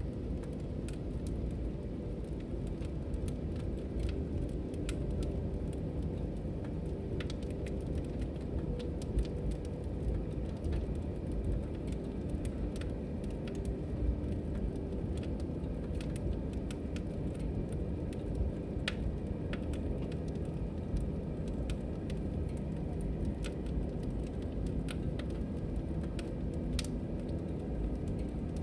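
Log fire in a fireplace crackling, irregular sharp pops and snaps over a steady low rumble of burning.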